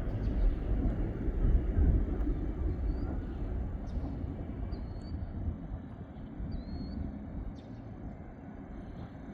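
Distant rumble of a Boeing 737-700's jet engines, slowly fading away. A few short bird chirps sound over it.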